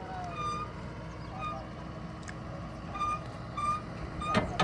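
Heavy vehicle engine running low, with short, repeated high beeps of a reversing alarm. A sharp metallic knock comes near the end.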